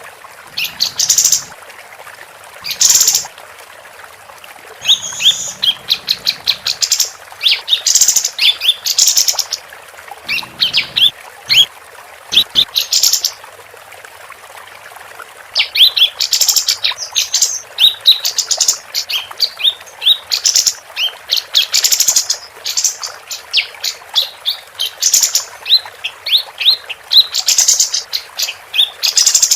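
Female kapas tembak (a bulbul) singing in rapid bursts of high, sharp chirps and twittering phrases, with short pauses between bursts and a longer pause a little before halfway.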